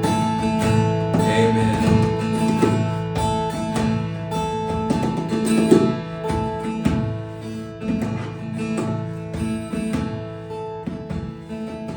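Acoustic guitar strumming slow, held chords, growing quieter toward the end.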